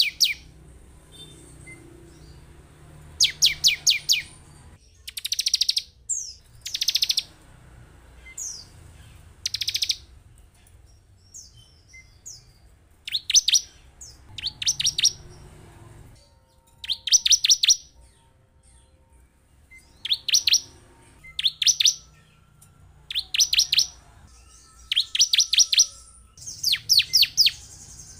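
Bar-winged prinia (ciblek) calling: short bursts of rapid, sharp, high repeated notes, each about a second long, coming every two to three seconds.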